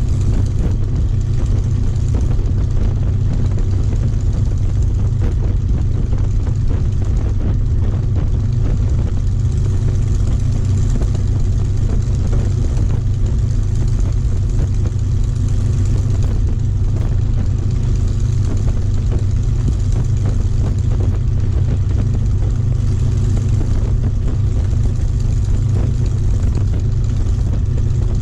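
Merlin V12 piston aero engine of a warbird fighter running at constant power: a deep, even drone that holds steady without rising or falling.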